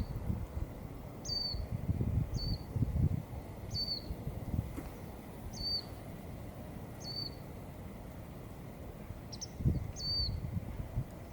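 A bird calling repeatedly: short, high chirps that each drop quickly in pitch, about once a second, over a low rumbling background noise.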